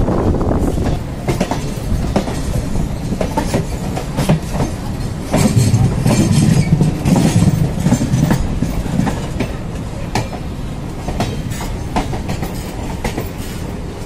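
Electric multiple unit suburban trains running side by side, a steady rumble of the running gear with a scatter of sharp wheel clicks over the rail joints. The rumble gets heavier and louder for a few seconds mid-way.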